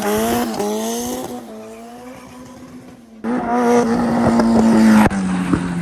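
Race car engines running hard at high revs, held steady, with a sudden break about three seconds in and a lower-pitched engine note near the end.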